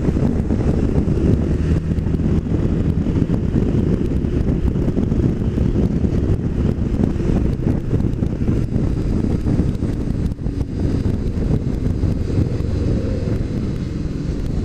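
Wind rushing over the microphone while riding a 2009 Yamaha Majesty 400 scooter, its 395cc four-stroke engine and the road noise running underneath. The noise drops briefly about ten seconds in.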